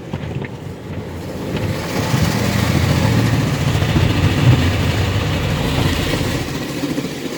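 Automatic car wash working over the car, heard from inside the cabin: a loud rushing of water and machinery over a low rumble, swelling about two seconds in.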